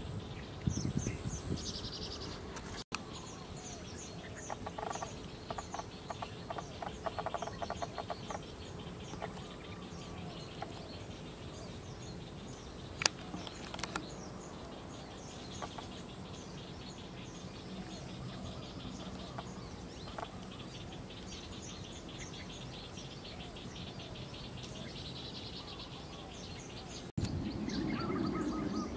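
Small birds chirping and twittering over a steady outdoor background, with a fast, high ticking trill at times and a single sharp click about 13 seconds in.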